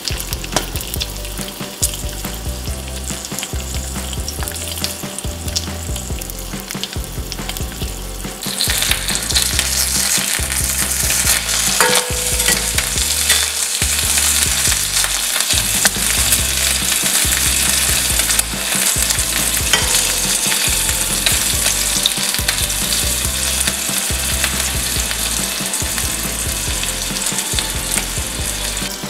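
Salted pollack roe sizzling in hot oil in a stainless steel frying pan. The sizzle grows louder about a third of the way in, and a metal spatula clinks once against the pan near the middle.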